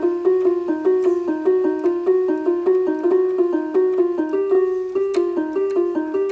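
Electronic keyboard playing a quick, repeating melodic figure, several notes a second, in a steady unbroken flow.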